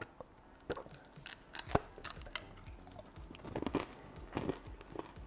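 People biting into and chewing candy-coated chocolate mini eggs: a run of sharp crunches as the hard white sugar shell cracks, the loudest about two seconds in, then smaller crackles while chewing.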